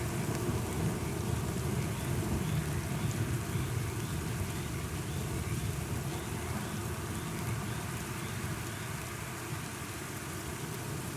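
Steady rain with a low rumble of thunder beneath it, which eases off somewhat in the second half.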